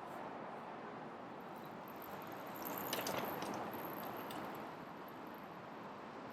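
City street ambience: a steady hum of distant traffic, swelling louder for about a second around three seconds in, with a few sharp clicks during the swell.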